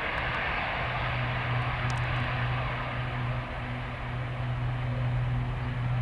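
Airliner engines running at takeoff power as the plane begins its takeoff run: a steady low drone under a broad, even rush.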